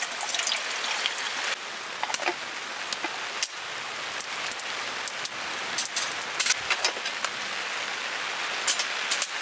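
Heavy rain falling steadily, a constant hiss with many sharp drop hits and ticks scattered through it.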